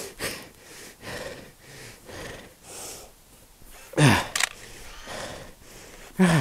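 A man panting hard and out of breath from heavy exertion, with a loud straining groan falling in pitch about four seconds in and another at the end.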